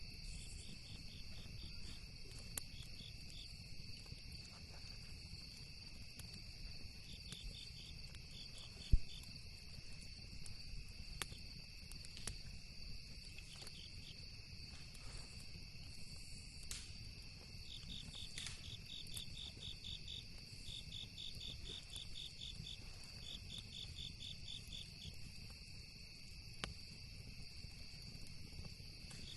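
Crickets chirping in rapid pulsed trains over a steady high-pitched insect drone, with scattered sharp pops from a crackling campfire, the loudest about nine seconds in. A low rumble runs underneath.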